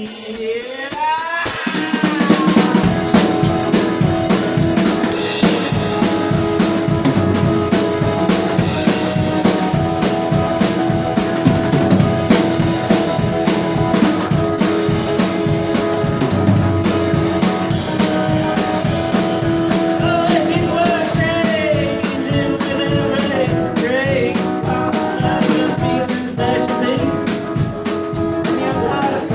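Live guitar-and-drum-kit band playing an instrumental passage with no singing. The drums come in with a steady beat about a second and a half in, under the held guitar chords.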